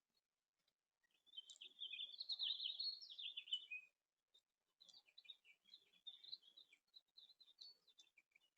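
A songbird singing a faint, rapid, warbling song of about three seconds, followed by a looser run of short chirps and twitters.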